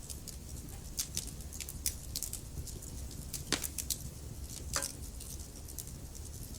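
Wood fire crackling in a fireplace: irregular small pops and snaps over a low steady rumble of the flames, with two louder snaps about three and a half and five seconds in.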